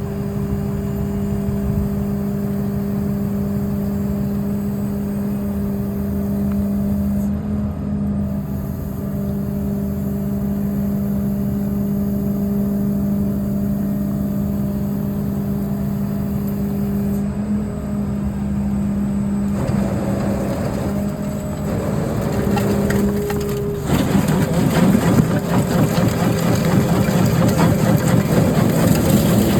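Freightliner 108SD cement mixer truck's diesel engine running with a steady hum, growing louder and rougher about 24 seconds in.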